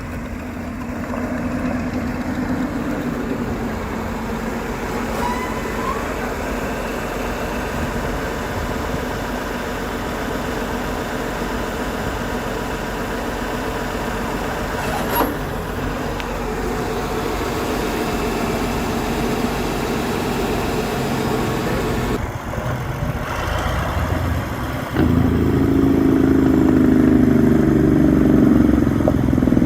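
John Deere 4030 tractor's diesel engine running steadily at idle, getting clearly louder and heavier near the end.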